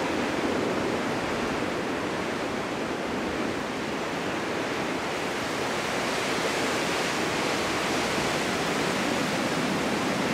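Strong winter wind blowing steadily, a dense rushing hiss that swells and eases slowly.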